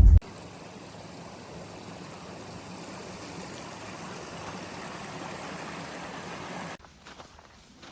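Steady rush of flowing water from a stream, even and slowly swelling. It cuts off suddenly about a second before the end.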